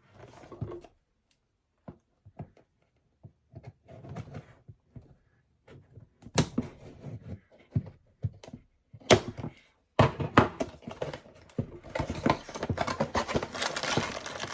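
A cardboard Lego set box being opened by hand: scattered light knocks and taps, with sharper snaps about six and nine seconds in, then from about ten seconds in a steady crinkling of the plastic parts bags being handled.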